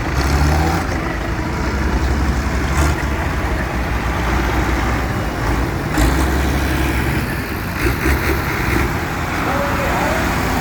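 Tractor engines running close by as a tractor run goes past, a steady low rumble that swells several times as each machine draws near.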